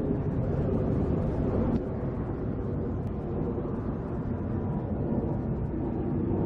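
Steady low rumble of a tug boat's engine as the tug sails through the harbour.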